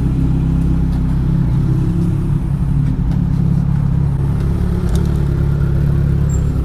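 Kawasaki Z1000's inline-four engine idling steadily through a Blackwidow exhaust with the dB killers removed, so it is running essentially straight-piped.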